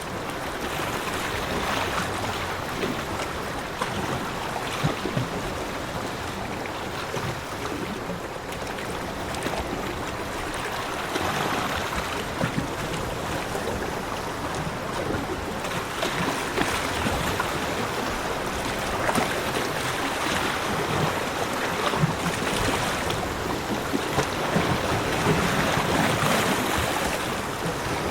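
Sea waves breaking and washing on a beach, a steady wash of surf that swells and eases every few seconds, with wind on the microphone.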